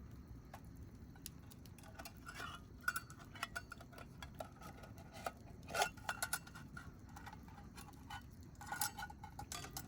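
Wood campfire crackling, with irregular sharp pops and snaps; the loudest pops come about three and six seconds in.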